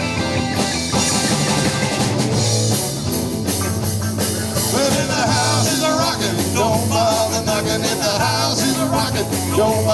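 Live rock band playing an instrumental break in a blues-rock shuffle: drum kit, a repeating bass line, and a lead line with bending notes coming in about halfway through.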